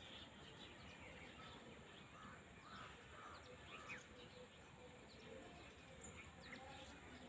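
Faint open-field ambience with distant wild birds calling: a few short harsh calls about two to three seconds in, and scattered thin chirps over a low steady outdoor hiss.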